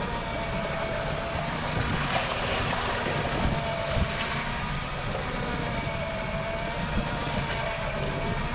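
Wind on the microphone and sea noise around a small fishing boat, with a faint steady whine from a motor that bends slightly in pitch.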